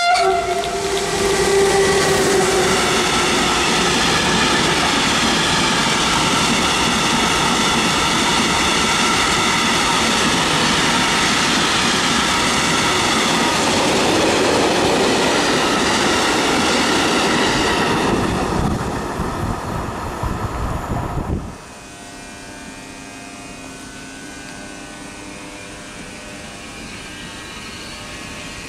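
A freight train of tank wagons hauled by an electric locomotive passes close by at speed: a loud, steady rush of wheels on rail with a high ringing from the wheels, after a held horn note at the start. The noise fades after about eighteen seconds. It then gives way suddenly to the quieter rumble of a train of Corail passenger coaches moving slowly along a platform.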